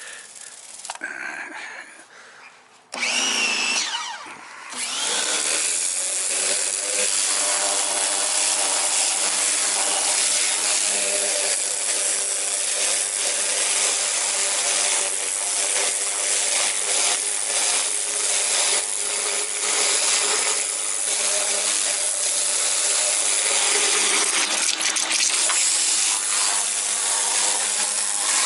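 An electric power tool's motor starts about three seconds in with a brief rising whine, then runs steadily with a loud hissing rush over its hum. It is cleaning oxidation off trolling-motor parts.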